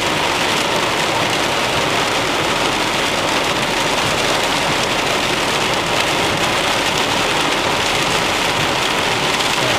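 Heavy rain: a steady, even hiss with no breaks.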